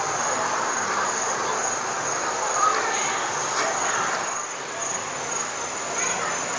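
Insects buzzing with one steady high-pitched tone, over a general haze of outdoor background noise.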